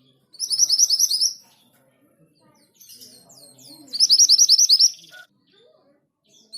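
Orange minivet singing: two rapid runs of short, high, rising whistles, one just after the start and one about four seconds in.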